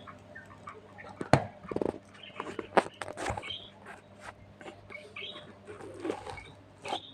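Budgerigars chirping and chattering in short calls, with several sharp clicks and taps mixed in; the loudest click comes a little over a second in.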